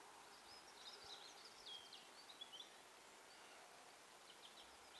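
Near silence with faint songbird chirping: short high twittering calls through the first half and again near the end.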